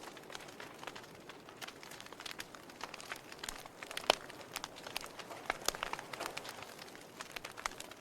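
Wood fire burning in a fireplace: steady soft hiss with irregular crackles and pops, the sharpest pop about four seconds in.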